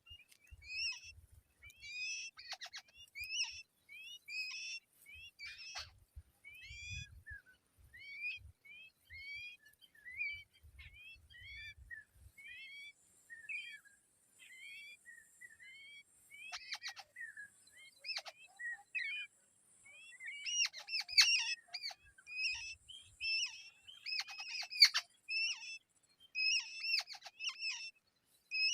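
Nestling birds' begging chirps: short high calls, each a quick bent note, repeated about twice a second, louder in the last third with sharp clicks among them.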